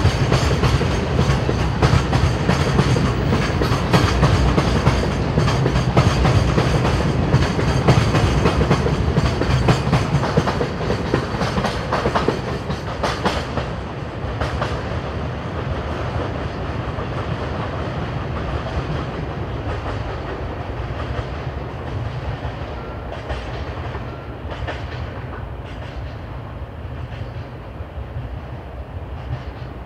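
A freight train departing behind a pair of EF64 1000-series electric locomotives, its wagons rolling by with a clickety-clack over the rail joints. The clatter eases about thirteen seconds in and keeps fading as the train draws away.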